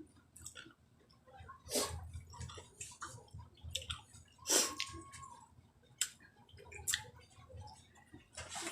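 A person eating close to the microphone: wet chewing and mouth sounds with several sharp clicks scattered through, the loudest about four and a half seconds in.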